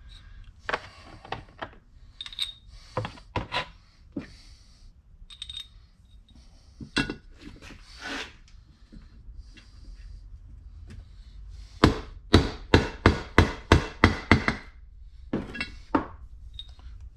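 Hammer striking a steel block to drive a new seal into a Muncie four-speed transmission housing. A few scattered taps come first, then a quick run of about ten sharp blows about twelve seconds in, and a couple more after.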